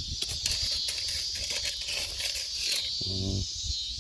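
Scratchy rustling and scraping of loose ground being searched through by hand, over a steady high-pitched insect drone.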